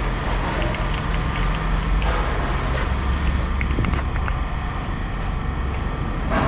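A machine or engine running steadily with a low rumble, with scattered light metallic clicks and knocks and one louder knock near the end.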